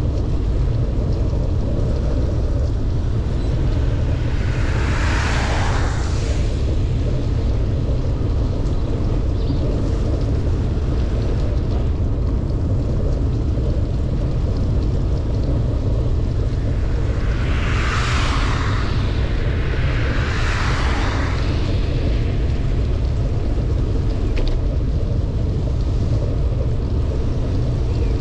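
Steady wind rumble on the microphone of a bicycle riding fast in pouring rain, with three hissing swishes of vehicle tyres passing on the wet road, one about 5 seconds in and two close together around 18 and 21 seconds in.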